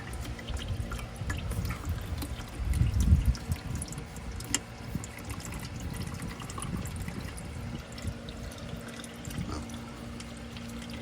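Old gear oil draining from the manual transmission of a 2024 Mazda Miata into a drain pan, a steady trickling pour, with a few clicks and knocks from the plug and tools.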